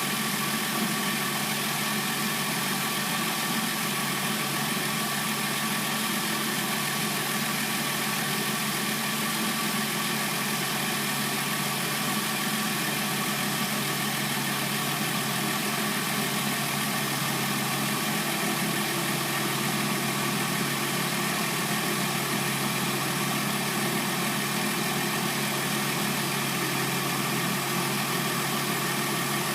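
Hyundai Sonata replacement engine idling steadily.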